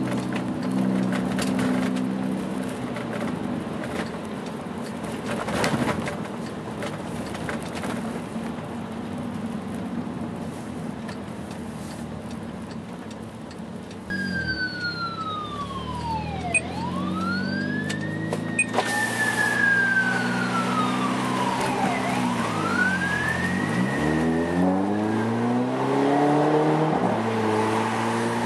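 Volkswagen Jetta MK6 2.0 TSI turbo four-cylinder idling through a straight 3-inch exhaust with no mufflers, a steady low drone. About halfway in, a siren starts wailing over it, rising and falling slowly.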